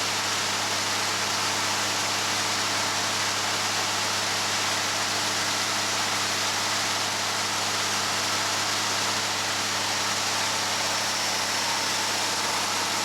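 Gleaner combine harvester running steadily: a constant engine hum under a broad, even hiss of the machine at work.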